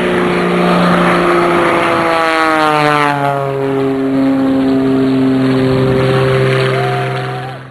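Propeller airplane at full takeoff power passing close by, its engine note dropping in pitch as it goes past. The sound cuts off abruptly near the end.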